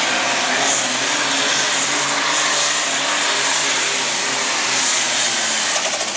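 Modified farm tractor's engine running flat out under load as it pulls the weight sled down the track. The noise holds steady and loud, then starts to fall away at the very end as the tractor lets off.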